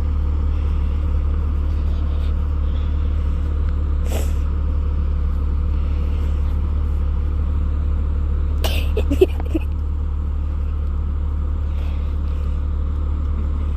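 Jeep Cherokee XJ running steadily at low crawling speed, heard from inside the cab as a constant low drone. A brief sharp sound stands out about nine seconds in.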